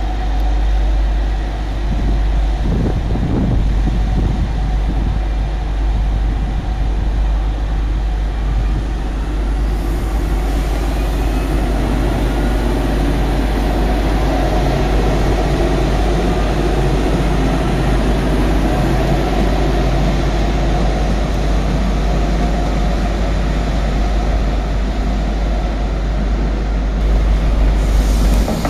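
TER Picardie Régiolis multiple unit running slowly out over the station's pointwork, a steady rumble of wheels on rail with a faint rising motor whine about ten seconds in. Near the end a double-deck TER electric unit comes in close and the noise grows louder.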